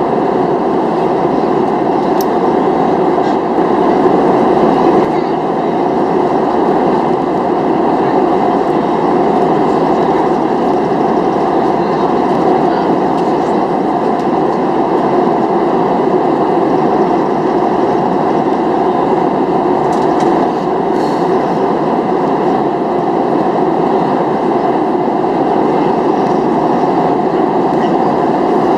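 Steady in-flight cabin noise of a Boeing 737-700: a constant, even rush of engine and airflow noise that holds the same level throughout.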